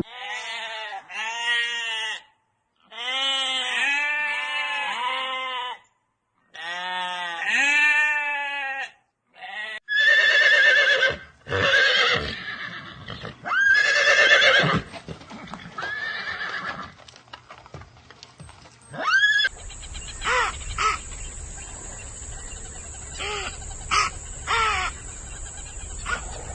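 A run of different animal calls, cut one after another. The first part is three bursts of fast-wavering pitched calls with short silences between them. Later come shorter, higher calls, and the last part has a few short calls over a steady low hum and a thin high whine.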